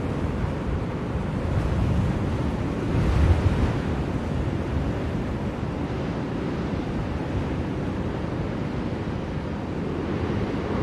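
Blizzard wind blowing in a steady low rush, swelling in a gust about three seconds in.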